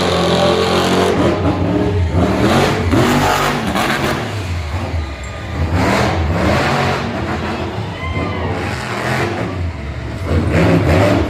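Monster truck engine revving loudly, its pitch rising and falling again and again.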